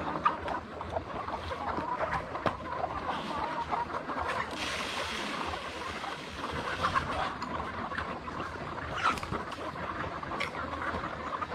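A flock of poultry calling, many short overlapping calls mixed with scattered clicks and knocks, with a stretch of hissing noise from about four to six seconds in.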